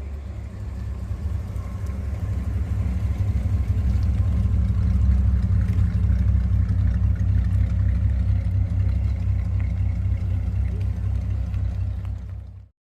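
A car engine running with a low rumble that grows louder over the first few seconds and then holds steady; the sound cuts off abruptly near the end.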